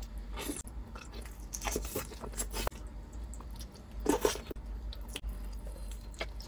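A person biting into and chewing soft, saucy beef rib meat, heard as a run of separate wet mouth sounds with short pauses between them.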